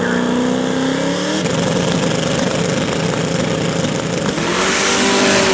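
Drag-racing car's engine at full throttle down the strip, its pitch climbing, turning rough about a second and a half in, then a higher engine tone again from about four seconds in.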